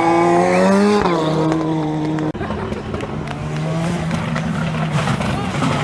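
Ford Sierra Cosworth rally car's turbocharged four-cylinder engine at high revs, the note rising and then falling sharply about a second in, breaking off suddenly a little over two seconds in, then running on at a steadier pitch.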